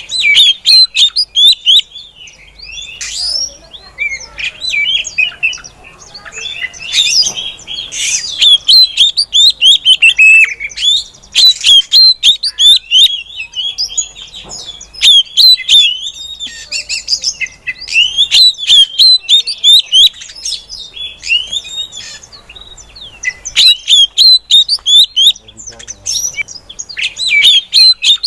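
Female oriental magpie-robin calling: rapid runs of short, high chirping notes, coming in loud stretches broken by a few brief quieter gaps.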